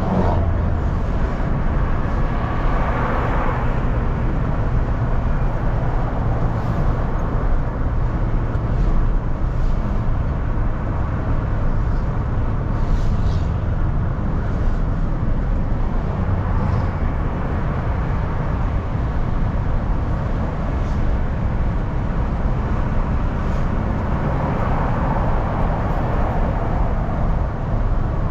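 Steady road and engine noise heard inside a moving car's cabin: a low rumble with tyre hiss. The noise swells briefly a few seconds in and again near the end.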